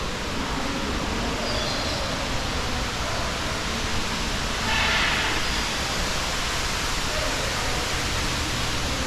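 Steady rushing noise, like running water or air, with a brief brighter, slightly louder sound about five seconds in.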